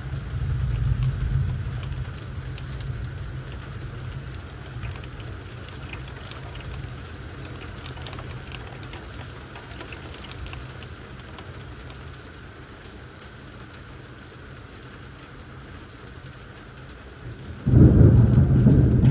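Thunderstorm: steady rain with scattered patters of drops, a low rumble of thunder fading over the first couple of seconds, then a sudden loud thunderclap near the end.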